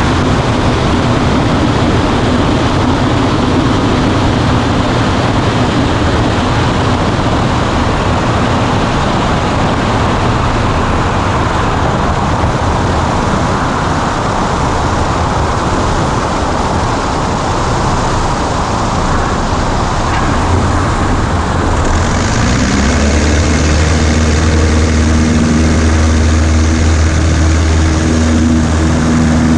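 Cockpit noise of a Cessna 140A in flight: the engine, propeller and airflow drone steadily and loudly. About two-thirds of the way through, the engine note changes to a deeper, more even hum.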